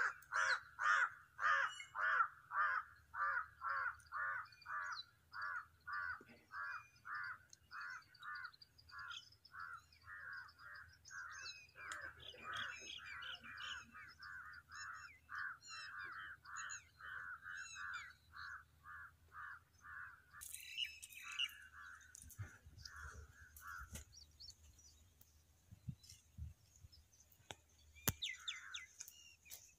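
A bird calling over and over in a long even series, about two calls a second, dying away after about 24 s, with small birds chirping higher up. Near the end, dry brush rustles and crackles.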